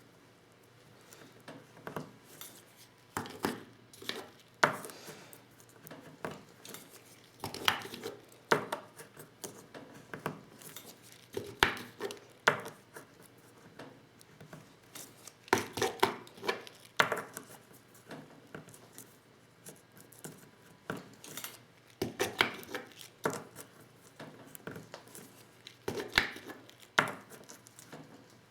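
Irregular clicks, taps and knocks from hand-reloading 12-gauge shotgun shells with a Lee Loader set: the metal tools and plastic hulls being handled and struck on the bench, some in quick clusters.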